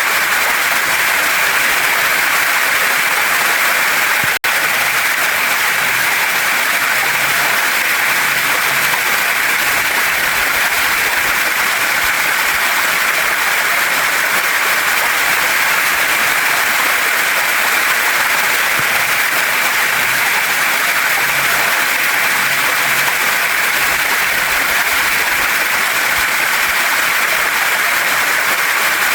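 Waterfall and stream water rushing over rocks: a loud, steady, even hiss, strongest in the upper middle range. It cuts out for an instant about four seconds in.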